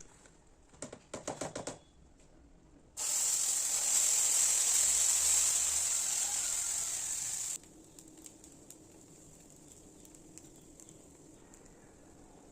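A quick run of about seven clicks, then a loud, even hiss that starts abruptly about three seconds in and cuts off after about four and a half seconds, followed by faint ticking.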